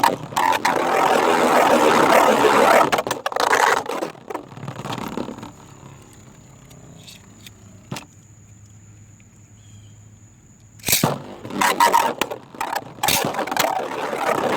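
3D-printed Beyblade tops scraping and rattling as they spin across a plastic stadium, with sharp clacks as they collide. It goes quieter in the middle, then a burst of clacks about eleven seconds in starts another loud stretch of scraping.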